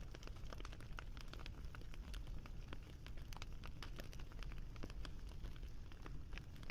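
Wood fire crackling steadily, with many irregular small pops and snaps over a low rumble of burning.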